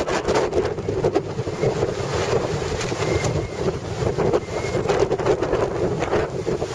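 Storm-force wind gusting hard, buffeting the microphone: a dense, loud rushing noise broken by frequent sharp thumps.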